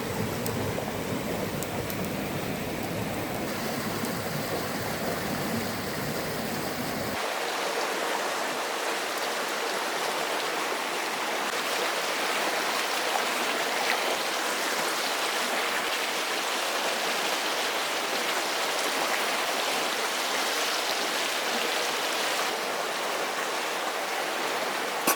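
Steady rushing noise, like rain or running water, with no voices. Its deep rumble drops out abruptly about seven seconds in, leaving a brighter hiss.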